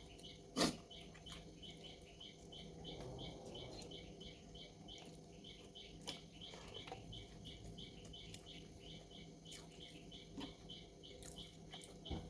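Faint high chirping repeated evenly about four times a second, with one sharp click about half a second in and a few softer clicks later.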